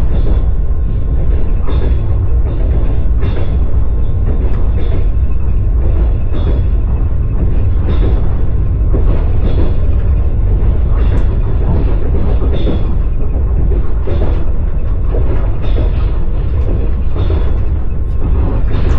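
Railway carriage's wheels clacking over the rail joints, irregular clacks about once a second over a loud, steady rumble of the moving train.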